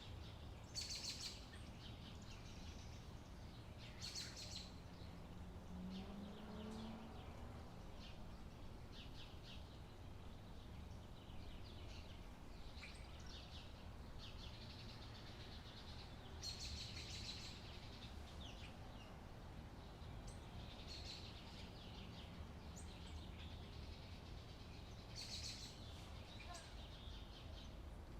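Small birds chirping in short, scattered bursts, with a few louder flurries, over a faint steady low rumble of background noise.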